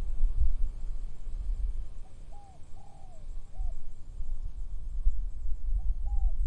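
A bird giving a low, cooing three-note call about two seconds in, starting again near the end. Under it runs an uneven low rumble of wind buffeting the microphone.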